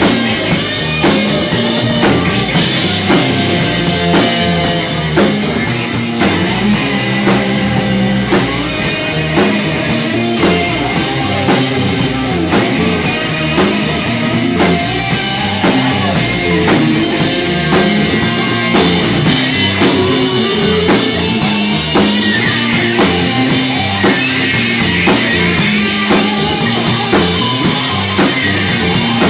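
Live rock band playing an instrumental stretch with no singing: an electric guitar lead line bending over bass and a steady drum-kit beat.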